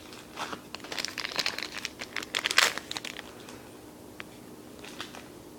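A foil Yu-Gi-Oh! booster pack being torn open and crinkled, a dense crackling for the first few seconds, then only a few faint rustles.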